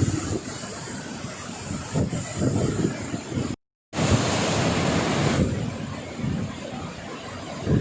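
Wind buffeting the microphone outdoors, in irregular low gusts over a steady rushing hiss. The sound drops out completely for a moment about three and a half seconds in, then goes on more quietly.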